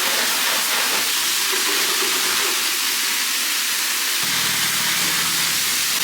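A pressure-washer wand spraying water onto a car, a steady hiss. About four seconds in, a low hum joins it.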